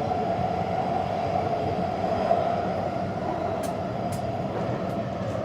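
Taipei Metro train running, heard from inside the car: a steady rumble of wheels on the rails with a constant hum.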